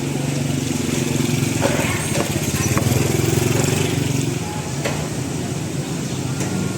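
Small motorbike engine running close by, growing a little louder around the middle and then easing off, with a few sharp knocks and faint voices around it.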